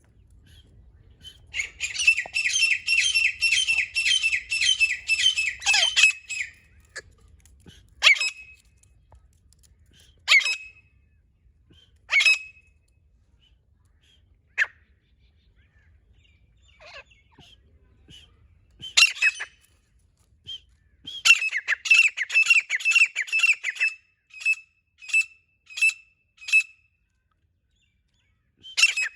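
Female grey francolin (desi teetar) calling: a fast run of harsh, squawking notes, then single notes several seconds apart, then another fast run trailing off into a few spaced notes.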